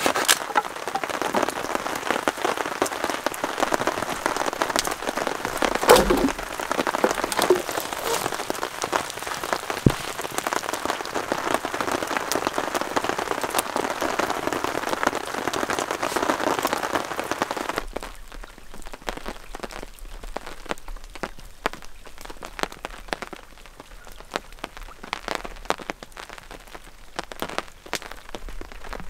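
Steady heavy rain, with a couple of sharp knocks in the first half. About eighteen seconds in it gives way to lighter rain, with separate drops tapping on a wet tarp.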